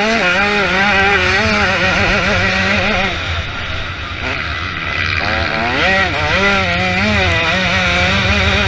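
Motocross bike engine revving up and down as the throttle is worked around the track. The revs sag for a couple of seconds about three seconds in, then climb again in quick surges.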